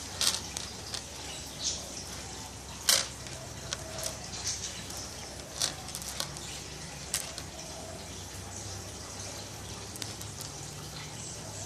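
Irregular soft clicks and rustles of hands handling twine while tying a small knot in the end of a plaited twine strand.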